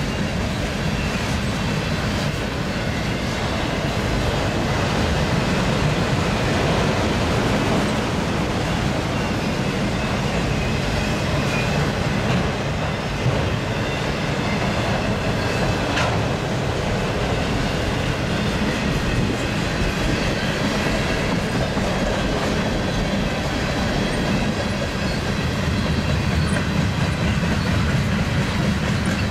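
Freight train cars rolling past, a steady rumble and clatter of wheels over the rails. One sharp tick about halfway through.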